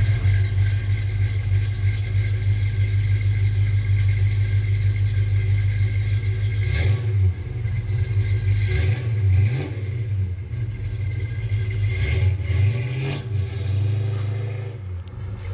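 Manual-transmission classic car's engine heard from inside the cabin, running steadily under way. From about seven seconds in its note drops and picks back up several times, as at gear changes.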